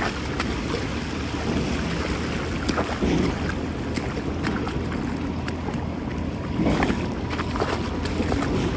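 Someone wading through a shallow river: water sloshing and splashing in irregular surges with the steps, over steady wind noise on the microphone.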